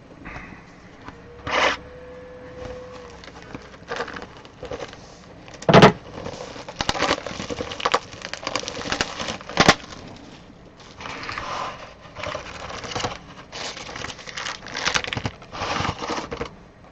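Cardboard and foil trading-card packaging crackling, crinkling and tearing as boxes and packs are handled and opened, with two sharp knocks about six and ten seconds in.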